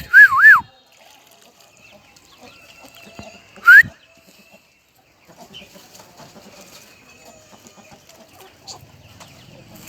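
Crested songbird singing loud, clear whistles: a quick phrase of three up-and-down notes at the start, then a single rising whistle a little under four seconds in, with faint background sounds between the phrases.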